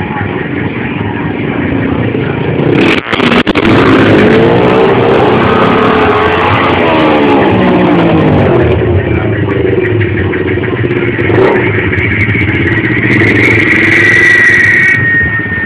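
Motorcycle engines revving loudly, the pitch repeatedly rising and falling, with a brief dropout about three seconds in.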